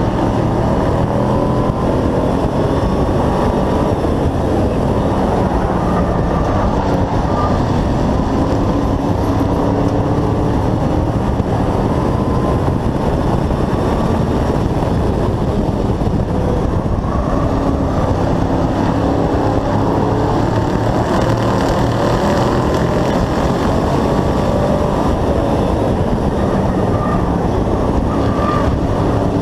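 Hobby-class race truck's engine running hard, recorded on board, its pitch rising and falling as it goes through the laps, over a constant rumble.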